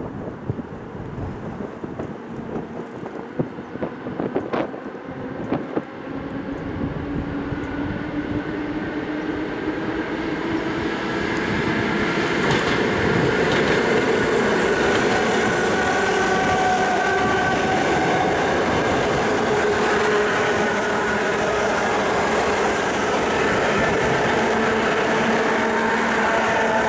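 ED4M electric multiple unit approaching and running past: a few sharp clicks about four to six seconds in, then the rumble of wheels on rail builds into a loud, steady running noise with whining tones over it as the cars go by.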